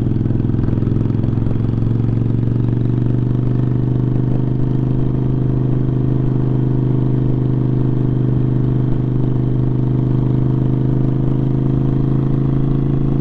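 Motorcycle engine running at a steady, unchanging speed while the bike cruises, heard from the rider's seat.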